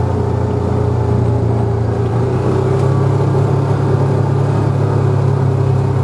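A car or truck driving steadily along a road: a constant low engine and road rumble with a faint steady hum, no change in speed.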